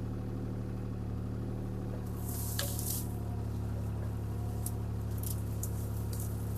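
CAT 303C CR mini excavator's diesel engine running at a steady speed, with a brief hiss about two seconds in.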